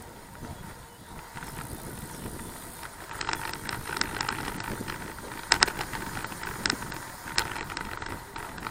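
Bicycle riding noise: a steady rush of tyres and wind, with sharp rattling clicks coming in from about three seconds in, the loudest pair about halfway through.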